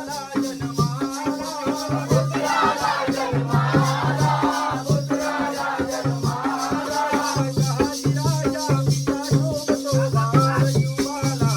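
Jakhadi folk music: a singer's wavering melody over a fast, even beat of pitched hand-drum strokes and constant jingling percussion.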